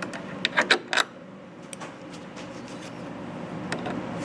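A socket wrench and terminal hardware clink a few times about half a second to a second in as a battery negative cable is fastened, over a steady low hum.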